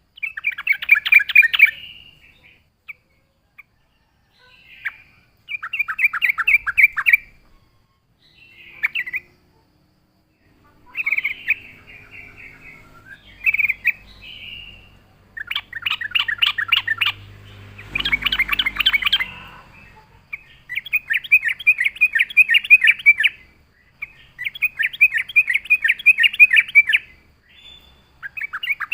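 Yellow-vented bulbul (trucuk) singing: quick, bubbly chattering phrases of one to three seconds each, repeated about eight times with short pauses between them.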